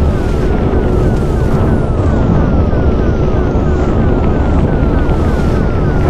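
Gale-force wind buffeting the microphone, a heavy steady rumble. Through it runs a faint falling whistle repeating about three times a second.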